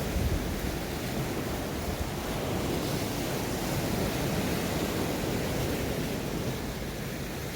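Sea surf washing steadily on the shore, with low wind rumble on the microphone.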